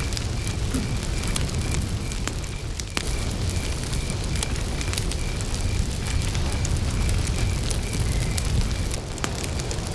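Wood campfire burning with a steady low rush and scattered crackles and pops, a couple of them sharper than the rest. Behind it a cricket chirps evenly at a high pitch, about two to three chirps a second.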